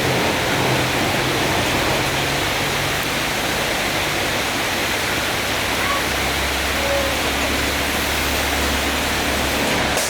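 Steady rushing noise of a running vacuum cleaner motor moving air, with a low hum joining about halfway through.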